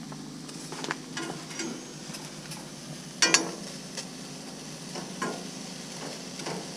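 Food frying in a pan with a steady sizzle, while a utensil stirs and scrapes it with scattered clicks; a sharper double knock against the pan about three seconds in is the loudest sound.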